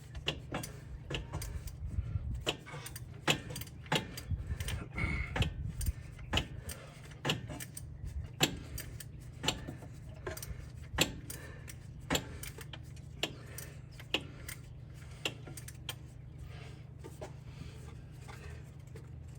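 Sharp metallic clicks and clinks of hand tools working on the engine, roughly one or two a second and unevenly spaced, over a steady low hum.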